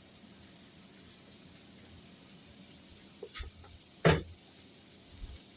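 Meat and oil sizzling steadily in a hot pan, a constant high hiss, with two short knocks about three and four seconds in.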